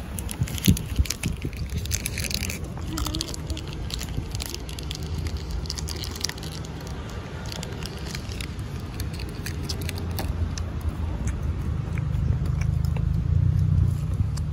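Crunchy chewing of hard chocolate candy, with a run of crackling bites in the first several seconds. A low rumble swells near the end.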